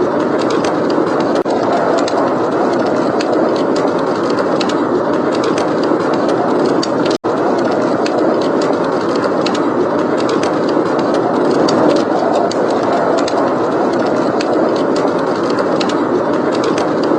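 Blizzard wind blowing steadily, with a fireplace crackling: many small, quick pops and snaps over a constant rushing noise. The sound cuts out for an instant about seven seconds in.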